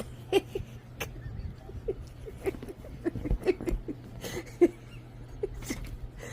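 Dog in bed making short grunting sounds and shifting about with a rustle of bedding, unwilling to get up to go out.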